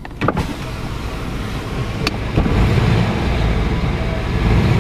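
A big truck's engine running as it pulls up, growing louder about halfway through, with a sharp click near the start and another about two seconds in.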